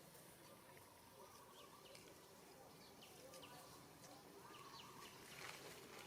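Faint animal chirps: short, high calls scattered throughout, over quiet outdoor background noise.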